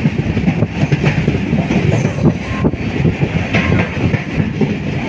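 Passenger train running along the track, heard from inside the carriage: a steady loud rattle and clatter of wheels and coach over the rails.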